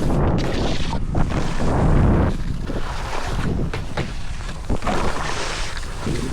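Wind buffeting the microphone, a gusty low rumble that peaks about two seconds in, with a rushing hiss over it.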